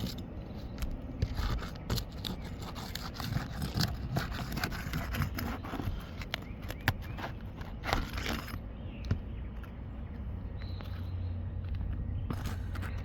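Asphalt 3-tab roof shingles being handled and lifted, irregular scraping, crackling and clicking, with a louder scrape about two thirds of the way in. A low steady hum comes up in the last few seconds.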